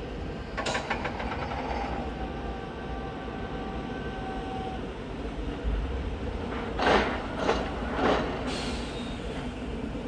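A train moving through the station, its wheels clattering over rail joints and points. A quick run of clicks comes early with a faint steady tone, and several louder knocks follow in the second half.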